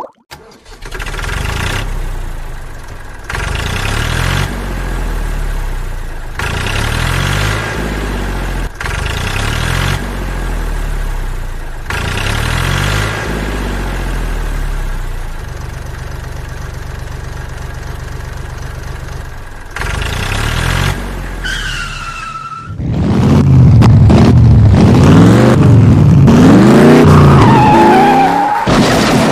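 Vehicle engine running and revving in short pieces that cut off every couple of seconds, with a brief falling whine about three-quarters of the way through. From there the revving is much louder and rises and falls repeatedly.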